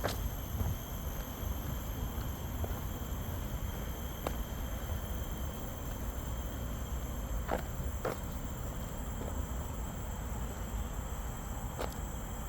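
Steady, high-pitched chorus of insects droning on several fixed tones, over a constant low rumble, with a few scattered faint clicks.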